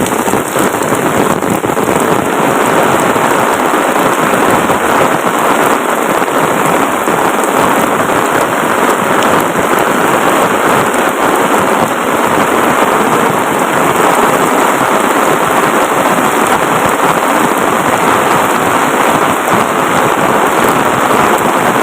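Heavy tropical rain falling hard, a loud, steady, dense hiss of rain with no letup.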